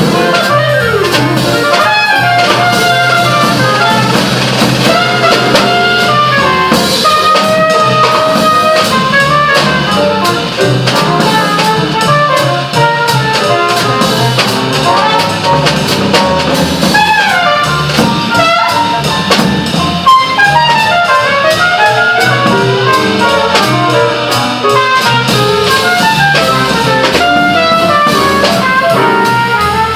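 Instrumental jazz with trumpet and saxophone over a drum kit.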